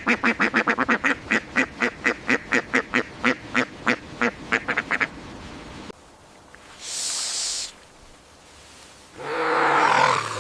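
A duck quacking in a fast series of about thirty short calls that slows over five seconds. After a break come a brief hiss and, near the end, a harsh, noisy animal sound.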